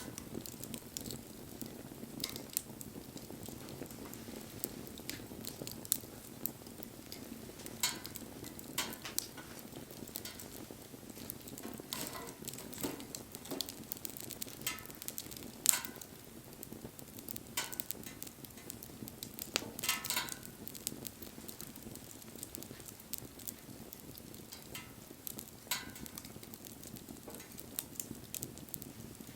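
Wood fire burning with a steady low crackle and scattered sharp pops and snaps, a few of them louder.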